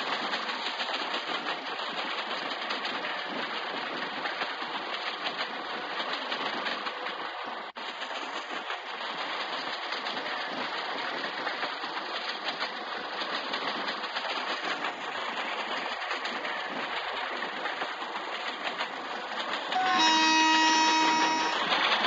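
Train running with a steady rumble and rattle, then a locomotive horn sounding one steady blast of about two seconds near the end.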